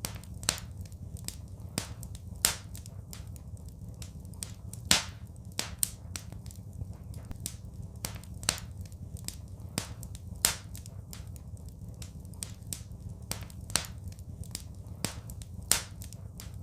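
Wood fire crackling in a fireplace: irregular sharp pops and snaps, several a second with a few louder ones, over a steady low rumble.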